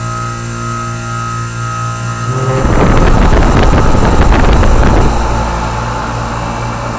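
York commercial air-conditioning condensing unit humming steadily; about two and a half seconds in its condenser fan kicks back on, a loud rush of air for a couple of seconds that settles into steady fan running. The restart is the low ambient kit's pressure-operated fan-cycling control bringing the fan back on.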